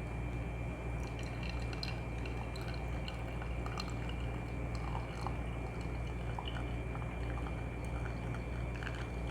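Hot water poured in a thin, steady stream from a kettle onto ground coffee in a pour-over brewer.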